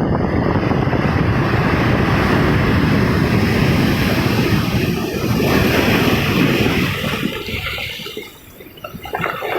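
Ocean surf breaking on the shore, mixed with wind rumbling on the microphone. The noise eases for about a second near the end, then comes back.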